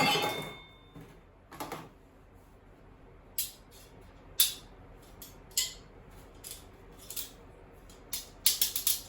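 Small pieces of metal being handled and dropped: a ringing clink at the start, then scattered sharp clinks and clatters, with a quick run of them near the end.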